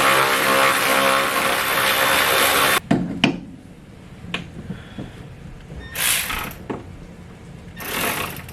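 A small power tool's motor running at speed, stopping abruptly about three seconds in, followed by a couple of sharp clicks and two short noisy bursts.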